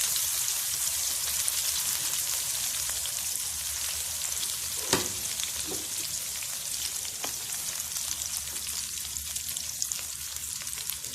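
Chicken pieces sizzling in pounded chili paste fried in oil, a steady crackling hiss that slowly gets quieter. A sharp knock about five seconds in, with a couple of fainter ones after.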